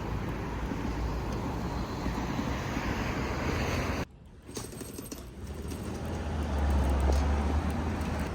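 Steady vehicle and road noise with a deep low rumble. It drops out abruptly about four seconds in, then returns and grows louder.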